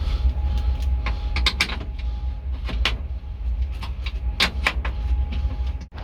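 Irregular sharp clicks and metallic clinks of hand tools working on metal, over a steady low rumble.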